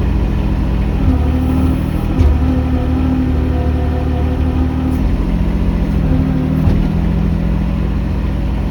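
Mini excavator's diesel engine running steadily, its pitch shifting a few times as the hydraulics take and release load while it digs and clears.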